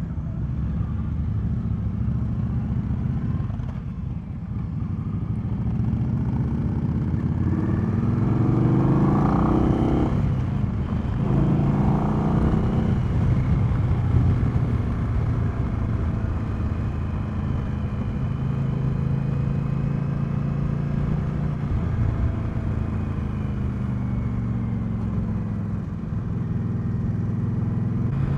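Motorcycle V-twin engine pulling away and accelerating: its pitch rises, drops sharply at a gear change about ten seconds in, rises again, then settles into a steady cruise.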